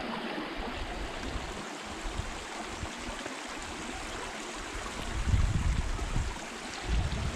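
A small stream running, a steady rush of flowing water, with low bumps on the microphone in the last couple of seconds.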